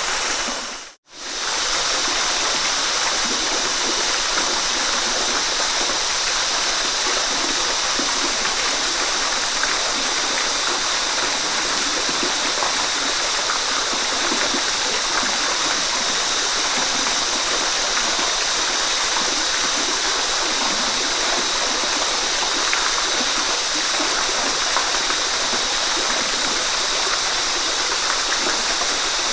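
Waterfall: a steady, even rush of falling water, strongest in its hiss, with a sudden brief cut to silence about a second in before the rush resumes.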